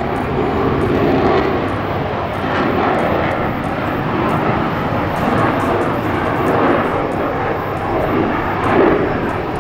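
Jet noise from a CF-18 Hornet's twin General Electric F404 turbofans, a loud, steady rushing sound that swells and eases slightly as the fighter flies its circuit after a touch-and-go.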